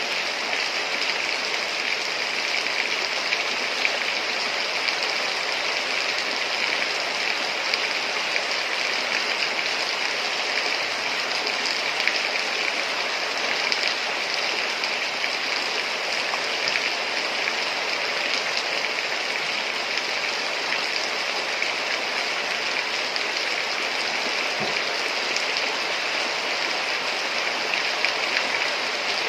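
Heavy rain falling steadily: a dense, even hiss of drops with no pauses.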